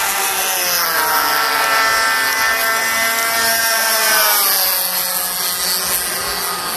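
Single-cylinder DLE 20cc two-stroke gasoline engine of a radio-controlled warbird model running at high throttle in a low fly-by, a high buzz whose pitch drops as the plane passes, about a second in and again around three seconds in.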